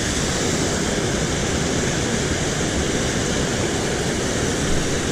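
Steady rushing of water pouring over a small creek spillway.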